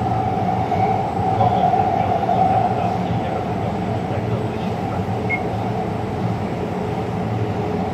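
Taipei Metro train running: a steady rumble of wheels on rail, with a whine that is strongest for the first three seconds and then fades.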